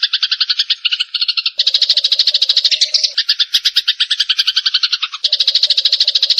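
Eurasian tree sparrows chirping in a dense, rapid chorus, a looped lure recording. The chirps come at about nine a second, and the mix changes abruptly about a second and a half in and again about five seconds in.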